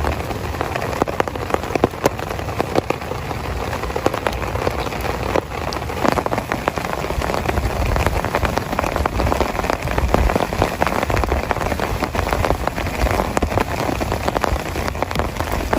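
Heavy rain falling steadily, a dense run of individual drop hits with a low rumble underneath.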